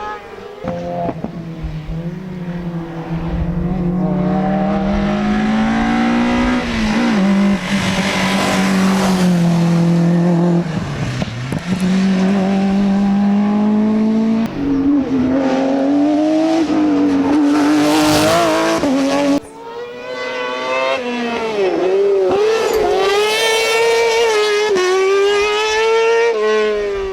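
Competition rally car engines at full throttle up a hillclimb, each pitch climbing and then dropping at every gear change. The sound breaks off suddenly about two-thirds through, and a second engine takes over, revving hard through its gears.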